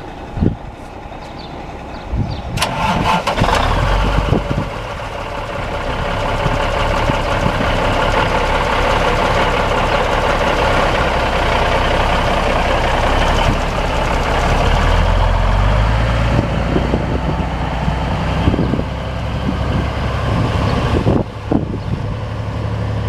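1977 Ford 9000 grain truck's diesel engine being started: it catches about two and a half seconds in, then runs steadily at idle, the sound easing off near the end.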